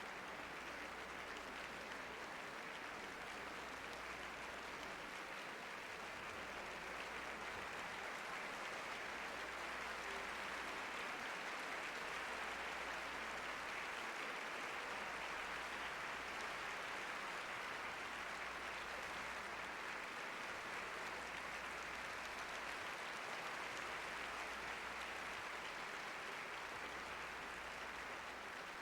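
Concert-hall audience applauding steadily, heard at a distance on an old live broadcast recording; the clapping swells a little midway. A low mains hum runs underneath.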